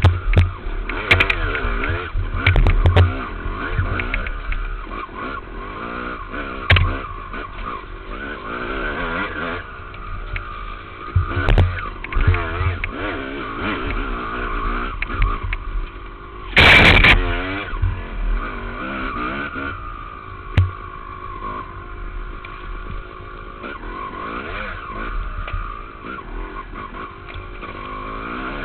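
Dirt bike engine revving up and down through the throttle as the bike is ridden along a trail, heard from a helmet-mounted camera, with scattered thumps and one loud rush of noise a little over halfway through.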